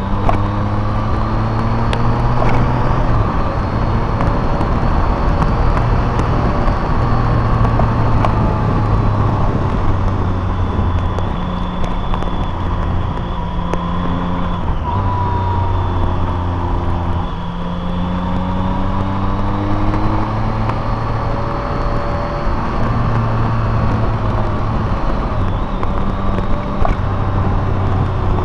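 Car engine and road noise while driving, the engine note rising and falling several times with speed and gear changes.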